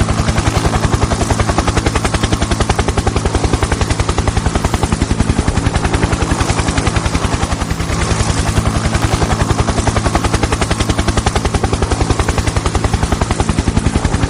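Helicopter rotor sound: a fast, steady chopping over a low hum, running without a break.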